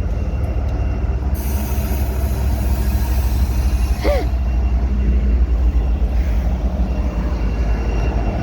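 Mixed freight train's cars rolling past: a steady heavy low rumble of wheels on rail, with a high hiss joining in about a second in.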